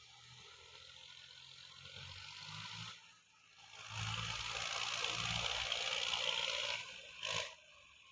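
Tractor engine working hard under a loud rushing noise that builds, dips briefly about three seconds in, then swells to its loudest for a few seconds, with a short sharp burst near the end.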